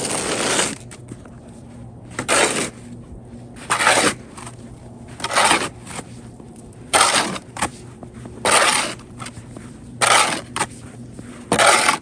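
Footsteps crunching in deep, fluffy snow, one about every second and a half, over a faint low steady hum.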